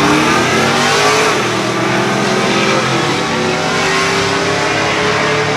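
A performance truck's engine revving loudly at high rpm, its pitch holding fairly steady and creeping slightly upward.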